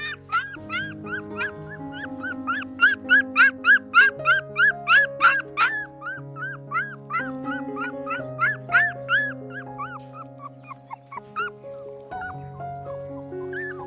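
Puppies crying in a fast run of short, rising-then-falling whimpers, about three or four a second, over background music with long held low notes. The cries thin out and become sparse near the end.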